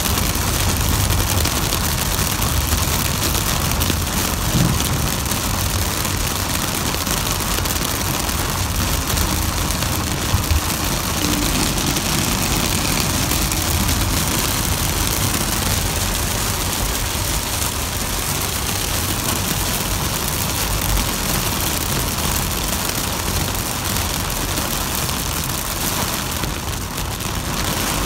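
Heavy rain drumming steadily on a car's roof and windscreen, heard from inside the cabin over the low rumble of the car driving.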